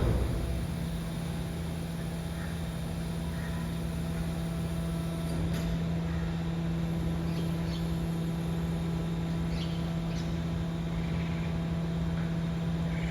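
BYD garbage truck's compactor machinery running with a steady hum, after a loud knock that fades right at the start.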